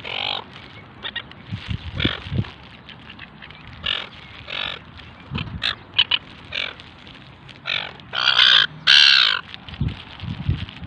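Seagulls and Pacific black ducks calling over one another at close range: a string of short, harsh squawks and quacks, with two longer, louder squawks about three-quarters of the way in.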